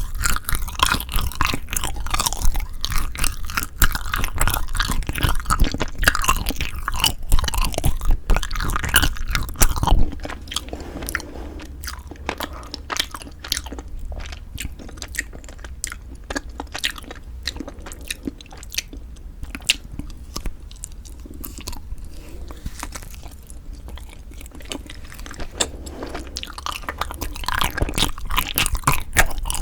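Close-miked chewing and biting of Kiri cream cheese and frozen chapssal-tteok rice cake: dense, wet clicking mouth sounds. Busy and loud for the first ten seconds, then softer and sparser, picking up again near the end.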